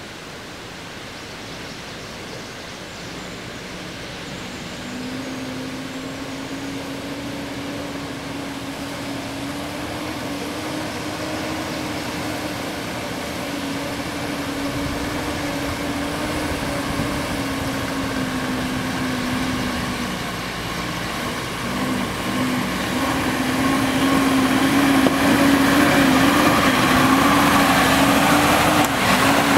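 SUV engine running under load, its drone growing steadily louder, easing briefly about two-thirds of the way through and then rising again.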